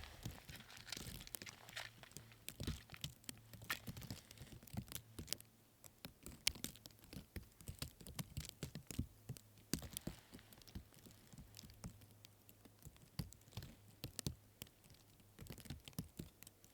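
Footsteps crunching through deep fresh snow, an uneven run of soft crunches and clicks.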